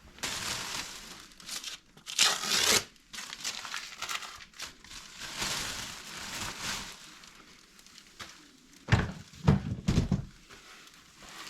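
Rustling and crunching of dry bird-nest debris being gathered and bagged, in stretches of crinkling, with a few dull knocks about nine seconds in.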